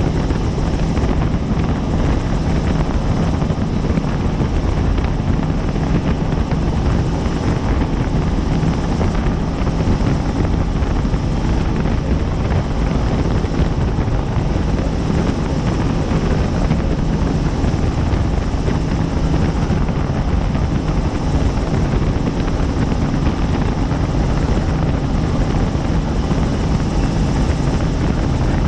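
Helicopter in flight, heard from on board: a steady, loud drone of rotor and engine that holds the same pitch throughout.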